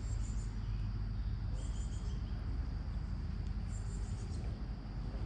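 Insects chirping in short high-pitched bursts that come about every two seconds, over a steady low rumble.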